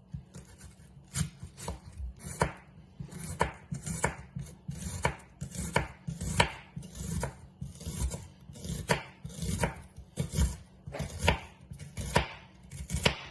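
Knife chopping an onion on a cutting board: steady, evenly spaced strokes, about two a second.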